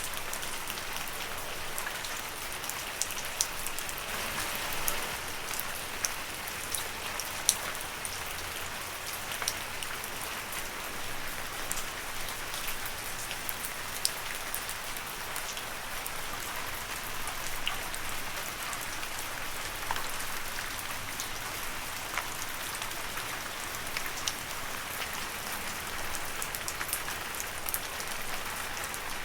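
Steady rain falling on leaves, an even hiss with many sharp, separate drop ticks scattered through it.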